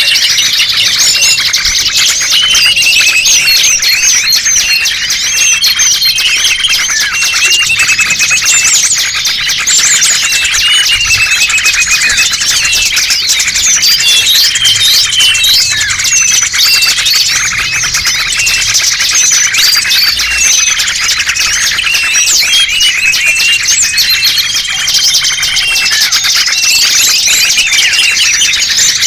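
Bird-lure recording of many small songbirds calling at once: a dense, unbroken chorus of high chirps, twitters and short trills.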